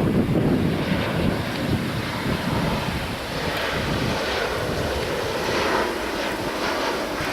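Jet airliner engine noise, a steady rushing roar, with wind buffeting the microphone, heaviest in the first two seconds.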